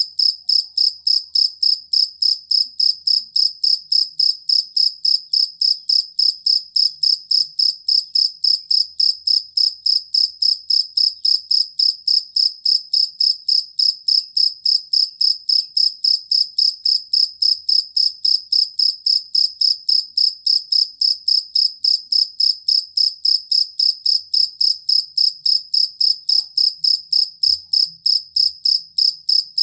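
Jangkrik kalung (two-spotted field cricket) singing: a steady, even train of short high chirps, about three a second, that never breaks.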